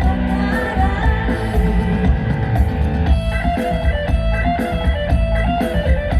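Live luk thung band playing an instrumental passage: electric guitar melody over bass and a steady drum beat.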